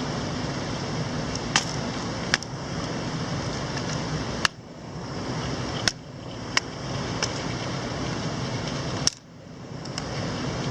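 Steady rushing of a mountain stream, with about six sharp knocks scattered over the few seconds.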